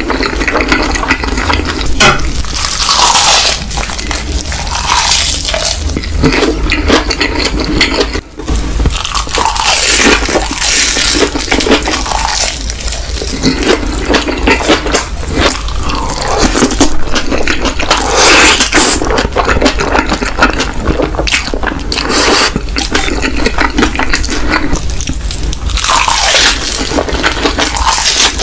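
Close-miked ASMR eating sounds of a person chewing fried instant noodles (Indomie goreng): continuous wet chewing, lip smacks and mouth clicks.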